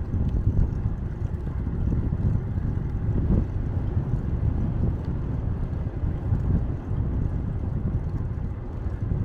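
Wind buffeting the microphone of a moving bicycle rider: a steady, fluctuating low rumble with no clear tones.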